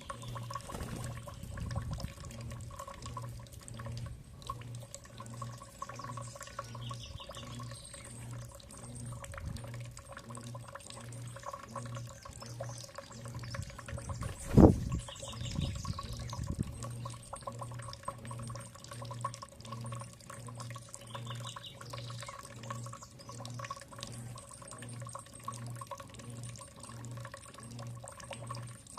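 Water running and splashing, with a low hum pulsing steadily underneath and a few short, faint bird trills. One sharp knock about halfway through stands out as the loudest sound.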